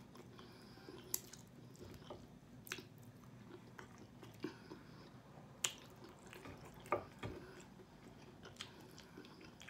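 Close-up eating of chicken wings: quiet chewing, with a few sharp, wet clicks at irregular intervals as the wing is pulled apart and eaten.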